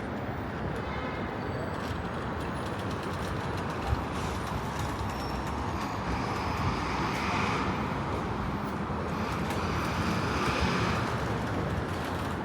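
Steady running noise of vehicles, swelling from about six to eleven seconds in, with a single knock about four seconds in.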